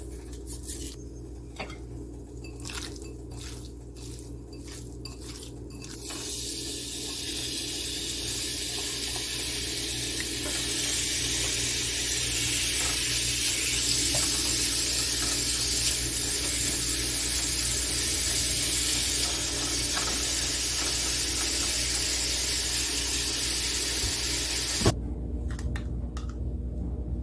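Scattered light clicks and taps of kitchenware, then food frying in hot olive oil in a pan on medium-high heat: a steady sizzle that starts suddenly a few seconds in and cuts off near the end.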